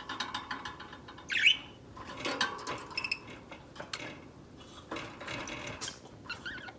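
Budgies chirping softly now and then, among small clicks and taps.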